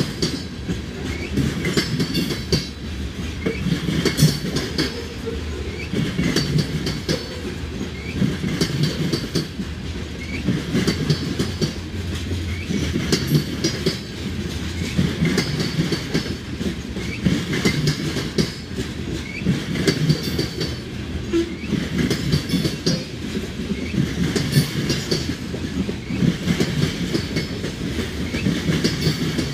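Covered hopper cars of a grain train rolling past. Their steel wheels click in repeating clusters every second or two over a steady low rumble.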